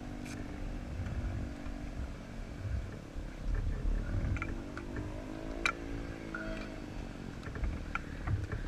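Racing motorcycle's stock FXR150 engine running at low revs, rising in pitch and falling back once midway. There is a low rumble and a few sharp clicks.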